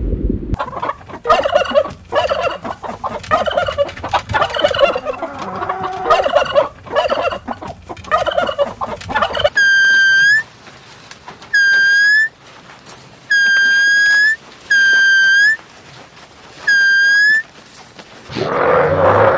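Turkey gobbling in rapid, broken bursts for about nine seconds, followed by five separate long, steady, high whistle-like notes.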